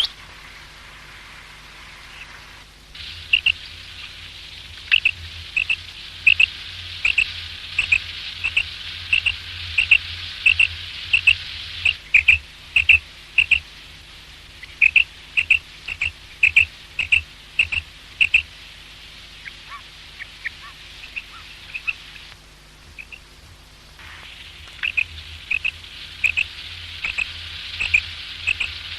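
Common quail calling: a long series of short, sharp, high whistled notes at about two a second, in runs broken by brief lulls, over a steady background hiss.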